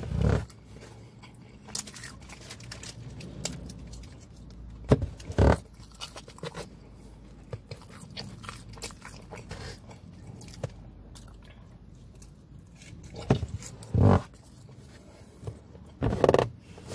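Close-up chewing and biting of pepperoni pizza, with a few short, sharp knocks and thuds from handling the food and the cardboard box.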